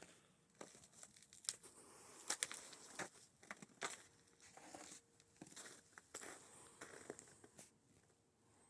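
Footsteps crunching through snow: a run of irregular crunches and crackles.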